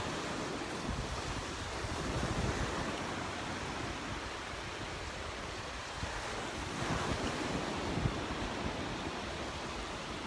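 Gulf surf washing onto the beach, a steady hiss of waves that swells now and then, with wind buffeting the microphone.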